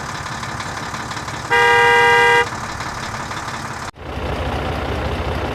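A vehicle horn toots once, a steady tone of just under a second, over a running engine. About four seconds in the engine sound cuts off abruptly and a lower, pulsing engine sound takes over.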